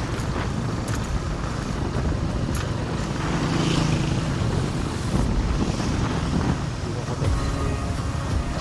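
Wind rushing over a helmet-mounted earphone mic while riding a Honda RS125 FI motorcycle, with its single-cylinder engine running steadily underneath.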